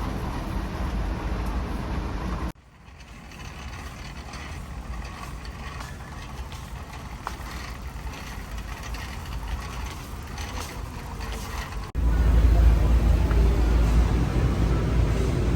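Steady low rumble of background noise in three edited stretches: loud, then abruptly quieter about two and a half seconds in, then abruptly loud again about twelve seconds in.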